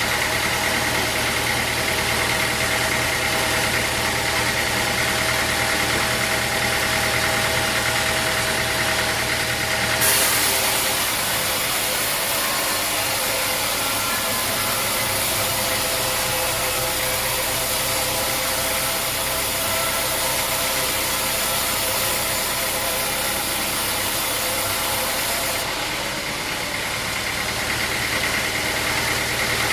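Sawmill machinery running with a steady engine-like drone. A loud hiss joins about ten seconds in and stops about twenty-six seconds in.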